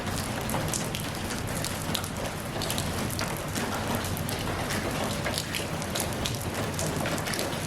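Steady rainfall, with many separate drops ticking and spattering on a hard surface over a constant hiss.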